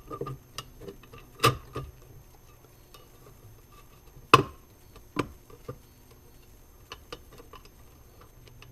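Scattered clicks and clinks of small metal parts being handled: bolts and pieces of a Model A horn set down and picked up, with the sharpest knock about four and a half seconds in.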